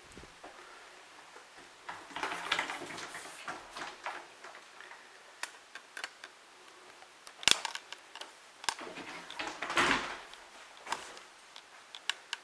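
Scattered handling noises: bursts of rustling about two seconds in and again near ten seconds, with several small clicks and one sharp knock about seven and a half seconds in.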